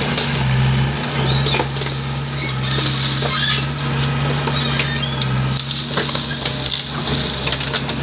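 Hydraulic excavator's diesel engine running under load with a steady low hum, over crunching, scraping and knocking as the bucket digs into soil.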